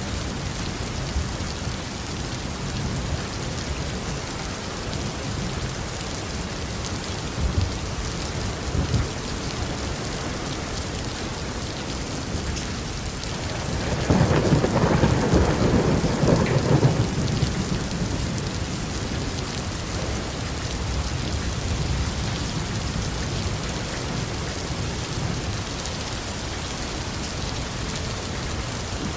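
Steady heavy rain falling on a roof, with a loud rumble of thunder about halfway through that lasts some three seconds before fading back into the rain.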